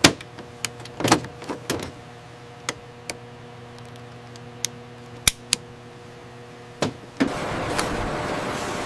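Scattered sharp clicks and knocks of hand assembly work over a faint steady hum, then a loud, even rushing hiss that starts abruptly about seven seconds in.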